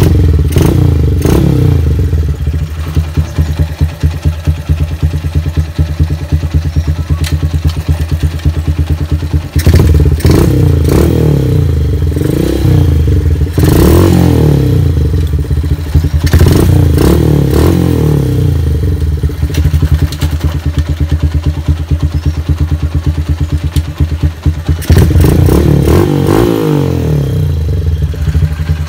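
Honda Megapro's single-cylinder four-stroke engine running stationary, revved up in short bursts at the start and again about 10, 14, 17 and 25 seconds in, then falling back to idle. This is a test run of the newly fitted GL100 clutch plates and Tiger clutch springs.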